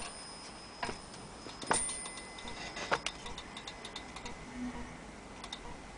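Ticking and clicking from an antique gilt-case pendulum mantel clock: a few sharp clicks about a second apart in the first half, one leaving a faint metallic ring, then fainter ticks.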